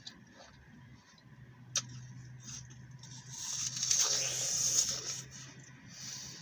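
Crisp green apple being bitten and chewed close to the microphone: a sharp click, then about two seconds of loud crunching in the middle.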